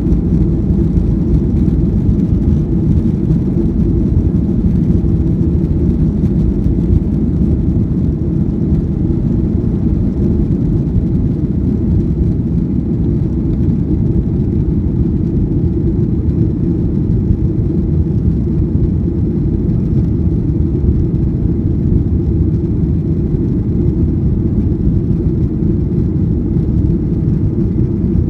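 Boeing 737-800 airliner with its CFM56 turbofan engines running: a steady, loud, low rumble of engine and airflow noise that holds even throughout.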